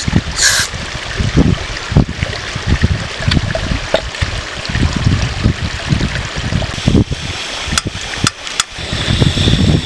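Steady rushing water, like a stream, with gusts of wind rumbling on the microphone and a few sharp clicks near the end.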